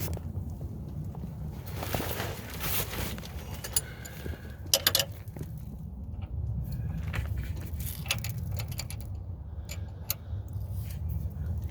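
Metal parts clinking and rattling as they are handled, in several short clusters, over a steady low rumble.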